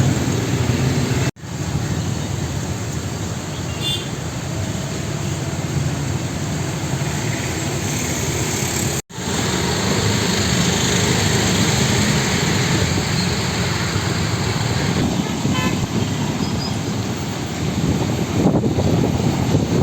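Steady road traffic noise with short car horn toots now and then. It cuts out for an instant twice.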